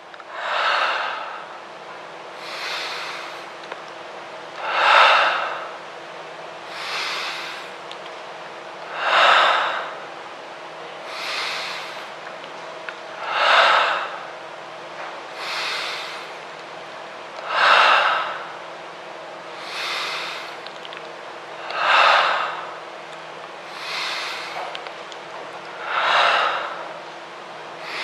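Dancers' heavy, rhythmic breathing: a loud breath about every four seconds, with a softer breath between each, over a faint steady hum.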